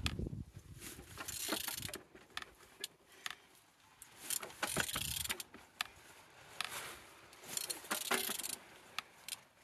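Suzuki G16B engine being turned over by hand at the crankshaft, giving several bursts of metallic clicking and rasping; it turns freely and is not seized.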